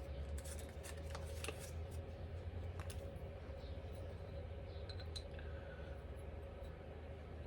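Scattered light clicks and taps of small metal engine parts being handled and fitted during a piston top-end rebuild, most of them in the first couple of seconds and a few later on. A steady low hum runs underneath.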